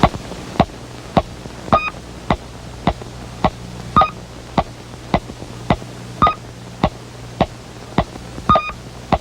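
Electronic sound effect of evenly spaced ticks, a little under two a second, with a short high beep on every fourth tick, over a steady low hum.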